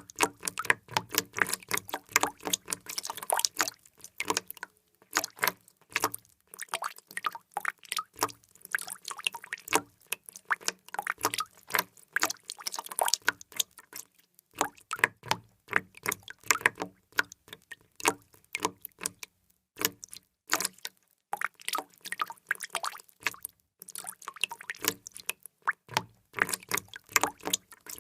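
Many water drops falling in quick, irregular succession, a rapid patter of small plinks and plops in uneven clusters with short pauses between them.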